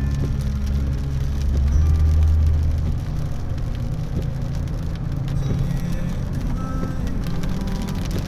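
Car driving, heard from inside the cabin: a steady low engine and road rumble, heavier in the first three seconds and then even.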